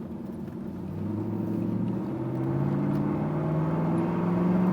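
1998 Pontiac Firebird Formula WS6's LS1 V8 accelerating, its note climbing steadily in pitch and getting louder from about a second in.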